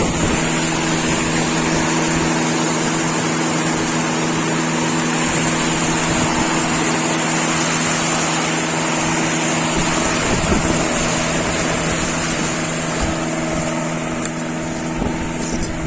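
An engine running steadily at an even pitch, with a steady rushing noise over it.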